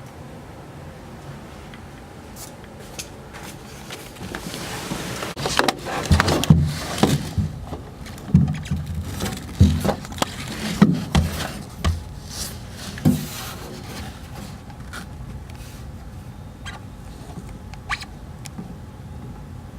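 Handling noises: a rustle, then a run of irregular knocks and clicks, then a few faint clicks near the end.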